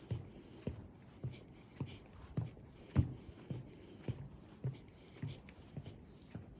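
Footsteps on a wooden boardwalk trail, walking at a steady pace of a little under two steps a second, each a dull thump on the planks. One step about three seconds in is louder than the rest.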